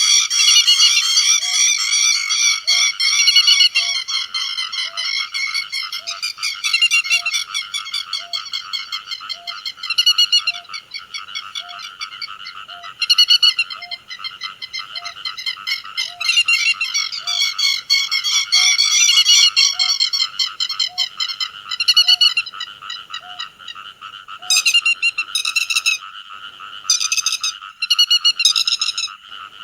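Te vàng lapwings calling as a flock-calling lure recording: a dense, unbroken run of quick high calls, swelling and fading, giving way to separate sharper calls near the end. A faint low pip repeats about every three-quarters of a second through most of it.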